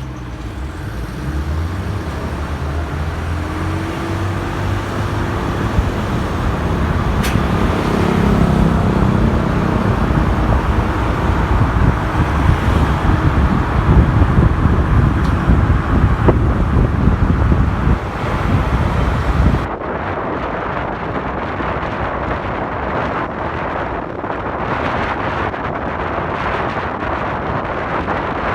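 Motorcycle engine pulling away and accelerating, its pitch rising through the gears, then buried under a heavy rush of wind and road noise on the microphone while riding. About twenty seconds in the rush turns abruptly duller and a little quieter.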